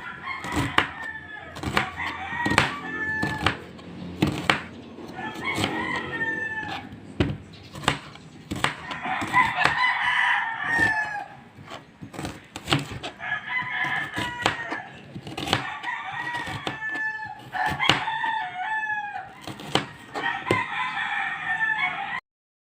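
Knife chopping garlic, onion and ginger on a cutting board in quick, irregular strokes, with roosters crowing and chickens clucking repeatedly over it. Everything cuts off just before the end.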